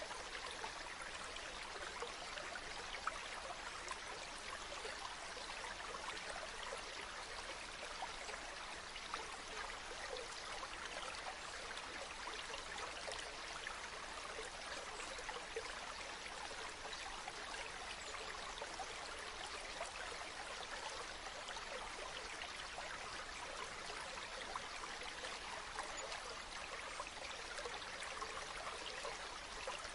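Running water flowing and splashing in a steady, even rush with fine crackle, more hiss than low rumble.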